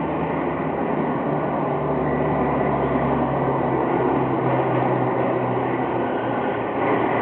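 Stock-class pulling truck's motor running steadily under load during a pull, with a low hum that strengthens through the middle and eases off near the end.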